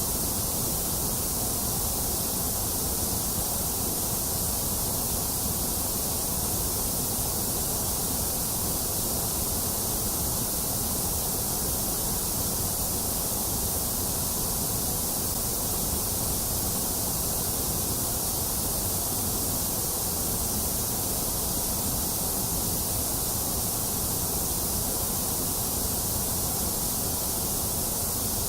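Steady white noise: a constant, even hiss that never changes, strongest in the high and low ends and thinner in the middle.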